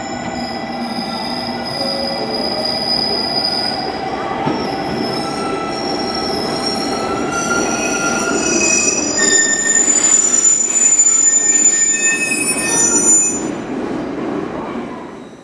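JR Kyushu 817 series electric train pulling into a platform and braking, squealing in several high tones that shift in pitch over the running rumble. The sound grows louder as it nears, then dies away near the end as the train comes to a stop.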